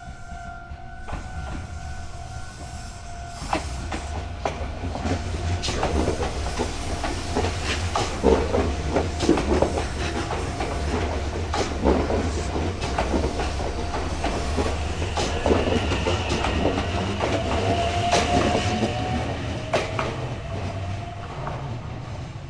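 A Nagoya Railroad (Meitetsu) electric train passing over a level crossing, its wheels clacking over rail joints above a low rumble, with a rising whine near the end. In the first few seconds the crossing bell's steady two-tone ringing is heard before the train's noise covers it.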